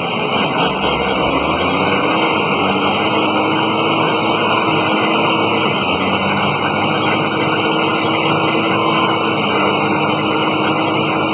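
A motor running steadily, with a held hum, under a loud, even rushing noise.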